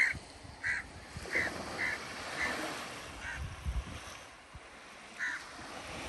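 A bird calling repeatedly, six short calls in the first three and a half seconds and one more about five seconds in, over a faint wash of calm sea waves.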